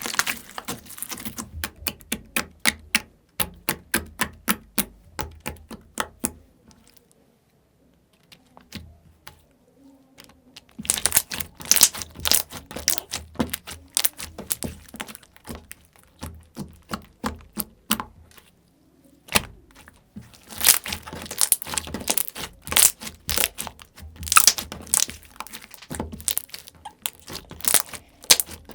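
Slime being handled, giving runs of rapid crisp clicks and crackles. The crackling stops for about four seconds after the first third, then resumes densely, with one more short pause near two thirds of the way through.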